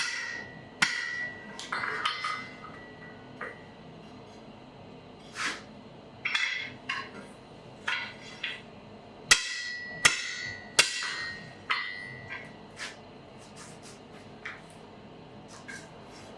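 Blacksmith's hammer striking on an anvil in irregular blows, the anvil ringing with a high, clear tone after several of them. The blows come in two spells with a pause of a couple of seconds between, fading to light taps near the end.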